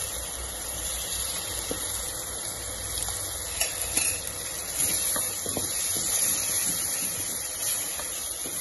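Onion-tomato masala sizzling steadily in hot oil in an aluminium pressure cooker, with a few light knocks of a wooden spoon against the pot as it is stirred, mostly about halfway through.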